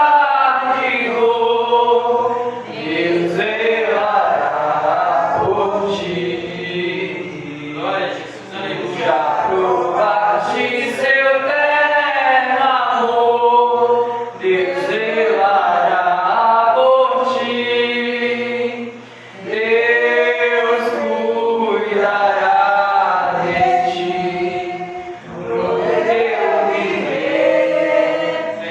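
Several voices, a man's among them, sing a Portuguese gospel hymn in long held phrases with little or no instrumental backing. There are brief breaths between phrases.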